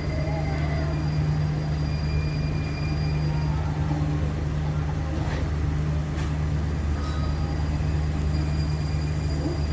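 Steady low hum inside a passenger train coach, with two faint clicks about five and six seconds in.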